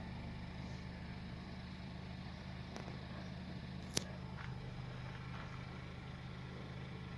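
Volkswagen Tiguan 1.4-litre petrol engine idling steadily, with a single sharp click about four seconds in.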